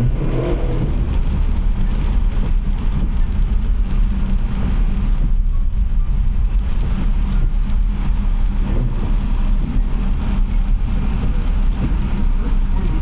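Car driving on a wet road: a steady low rumble of road and engine noise.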